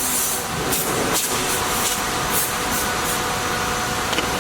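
CNC wood router running: a steady machine drone with a few steady whine tones, and short bursts of high hiss every now and then.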